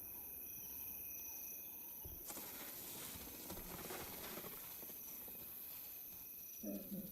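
Bush ambience with insects chirring steadily in high, even tones. A rustling sound starts about two seconds in and fades out. Near the end comes a short, soft lion call.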